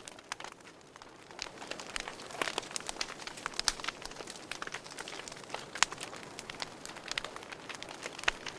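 Wood burning in a fireplace, crackling: irregular sharp pops and snaps over a soft hiss, with two louder pops a little past the middle.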